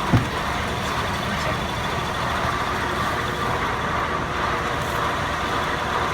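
Truck engine running steadily on a chassis dyno, with a single thump just after the start.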